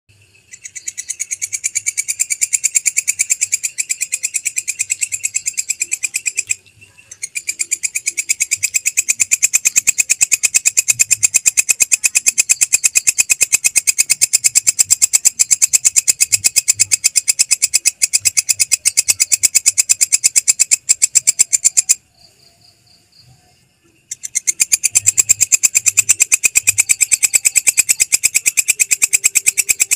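Belalang kecek katydid singing: long trains of rapid, evenly repeated high-pitched ticking pulses. It swells in over the first second or two and breaks off briefly about seven seconds in and for about two seconds near the end.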